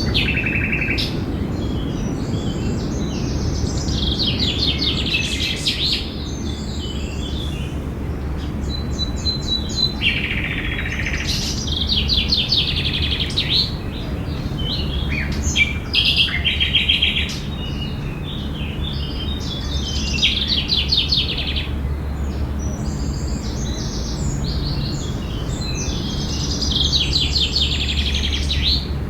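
Songbirds singing and chirping in a park, one short trilled phrase after another every second or two, over a steady low background rumble.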